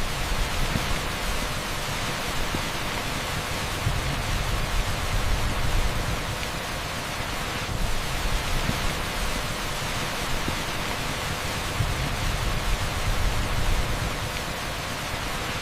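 Heavy rain pouring onto an asphalt street, a dense, even hiss with a deep low rumble underneath, steady throughout.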